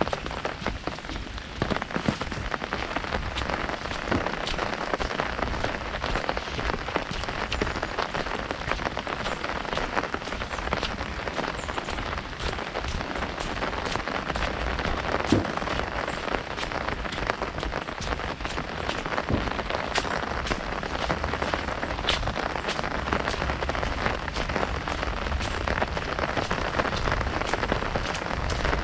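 Heavy rain drumming on an umbrella canopy overhead, a dense steady patter with many sharper individual drops striking close to the microphone.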